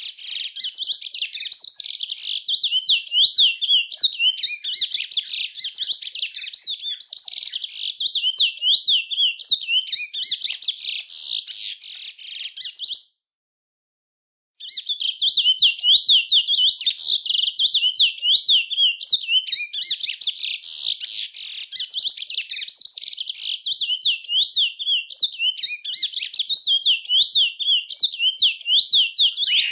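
A songbird singing a long, fast, continuous twittering song of quick high notes. It breaks off abruptly about 13 seconds in and resumes a second and a half later.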